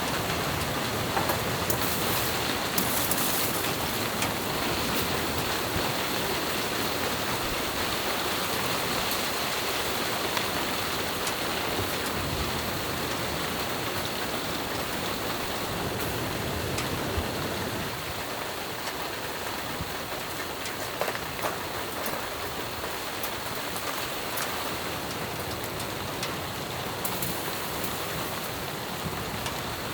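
Steady rain-like patter of falling precipitation hitting a surface, with scattered small ticks of individual drops; it eases slightly about two-thirds of the way through.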